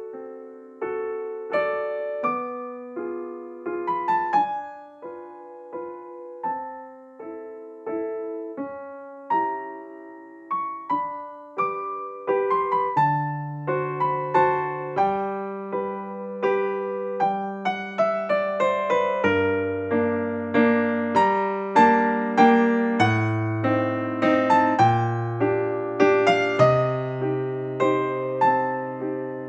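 Background piano music: a gentle melody of struck notes that fade, with a lower bass line joining about halfway through.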